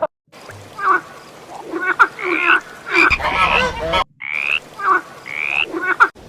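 Frogs croaking in a run of short calls, a few of them higher and rising in pitch, broken by a brief silent cut about four seconds in.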